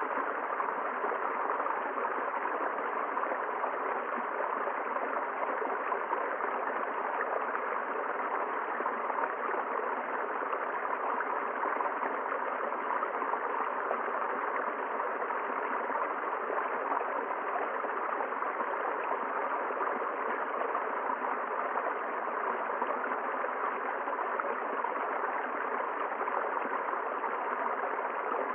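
River water flowing in a steady, even rush that does not change.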